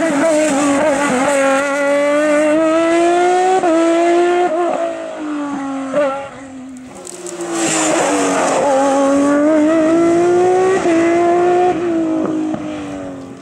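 Race car engine at high revs going past under hard acceleration, its pitch climbing through the gears with short dips at each shift. It drops away about six seconds in, then revs up again and fades near the end.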